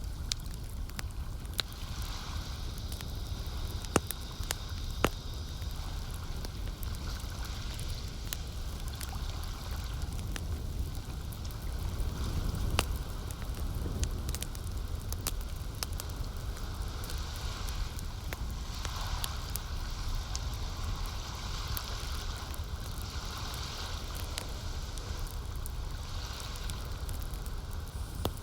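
Campfire crackling with frequent small pops and a few louder snaps, over lake water gently lapping and trickling and a low steady rumble.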